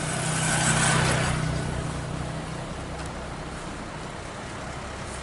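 A vehicle engine running steadily with a low drone, with a rush of noise that swells about a second in and fades away over the next second.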